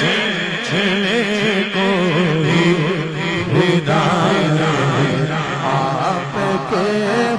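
A man singing a devotional Urdu naat in a long, drawn-out wordless melisma, the held notes wavering up and down without a break.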